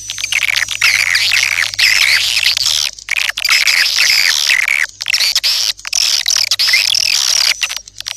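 A flock of swiftlets twittering: a dense chatter of rapid, high, sweeping chirps that breaks off briefly a few times.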